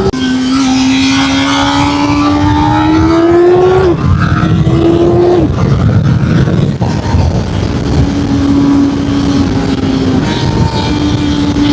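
Honda CB1000R's inline-four engine pulling through the gears: the pitch rises steadily, drops at an upshift about four seconds in and again a second and a half later, then holds a steady cruise with one more shift near the end, over constant wind noise.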